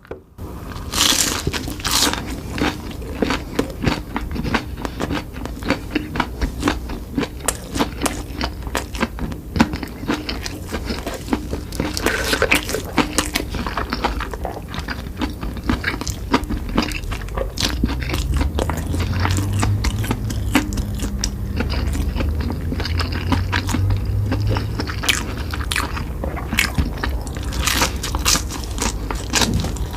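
Close-miked eating: a person biting and chewing food, with dense, irregular crackling clicks and smacks throughout.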